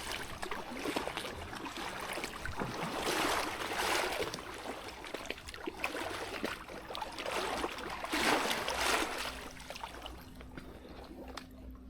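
Water lapping and trickling against a kayak's hull, swelling up a couple of times and settling toward the end.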